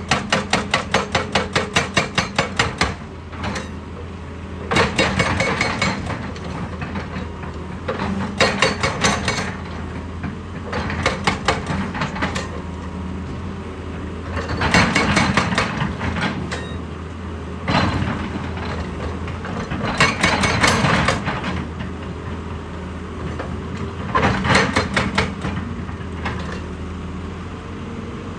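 Heavy machine's hydraulic rock hammer pounding rock, about five strikes a second for the first few seconds, then in short bursts every few seconds. A diesel engine runs steadily underneath.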